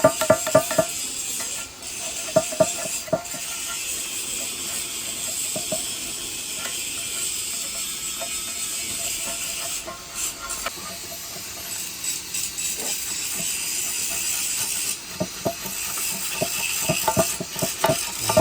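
Metal clinks and clicks, as of tools and metal parts being handled, in clusters about a second in and again near the end, over a steady hiss.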